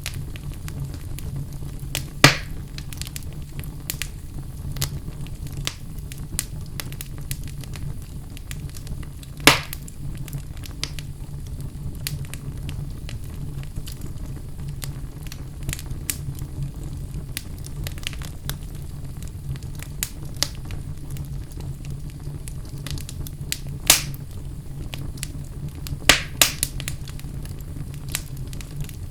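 Wood fire burning in a fireplace: a steady low rumble with frequent small crackles and a few loud sharp pops, the loudest about two seconds in, near ten seconds, and twice near the end.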